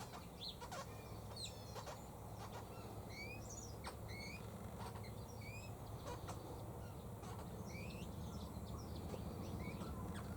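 Wild birds chirping and calling: many short chirps and quick rising whistles, scattered through the whole stretch, over a faint low steady hum.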